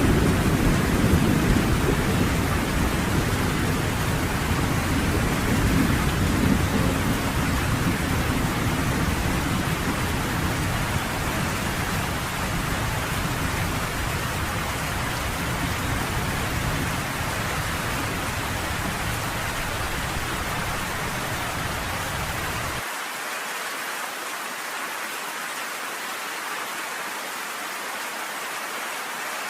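Steady heavy rain with a long, low thunder rumble that slowly fades and then cuts off abruptly about three-quarters of the way through, leaving just the hiss of the rain.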